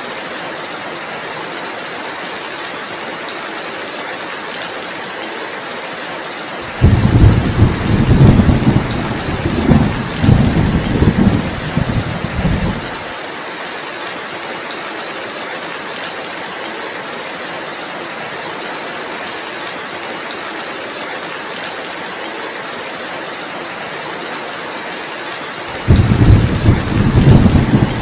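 Steady heavy rain falling, with two long rolls of thunder: one begins suddenly about seven seconds in, rumbles for some six seconds and cuts off abruptly, and another begins near the end.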